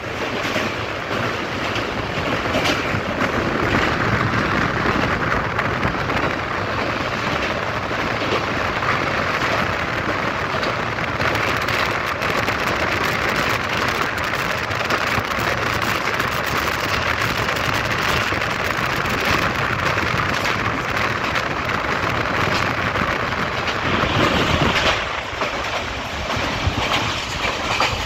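Passenger train running at speed across a steel girder bridge, heard from an open window: a steady rushing rumble of wheels on rail mixed with wind, with a fast rattling clatter through the second half.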